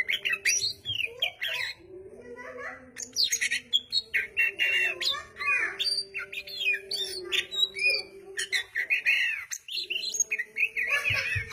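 Oriental magpie-robin (kacer) singing actively, a fast run of varied whistles and chirps that sweep up and down, with a short break about nine seconds in. A steady low hum runs underneath.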